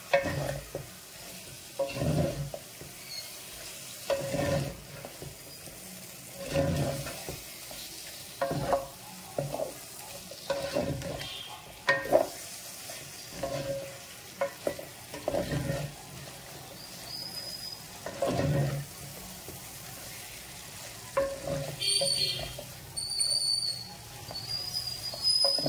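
Prawns frying over a high flame in a spicy masala paste, sizzling steadily while a spatula stirs and scrapes them about every two seconds.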